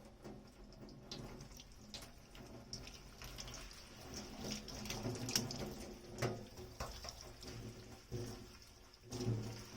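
Kitchen tap running into a sink while dishes are washed, with scattered light clinks and knocks of dishes against the sink.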